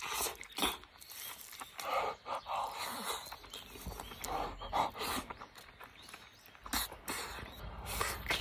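Close-up eating sounds: wet chewing and mouth smacking on mouthfuls of hamburger steak and rice in tomato sauce, in irregular bursts with small clicks.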